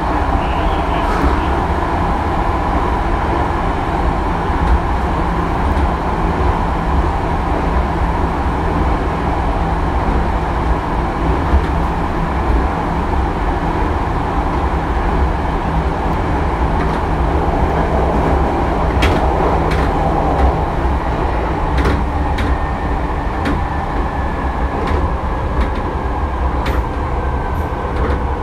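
Hankyu 3300-series electric train running, heard from inside a car: a steady, loud rumble of wheels on rail with motor and gear tones. There are a few sharp clicks about two-thirds of the way through, then a faint whine slowly falling in pitch.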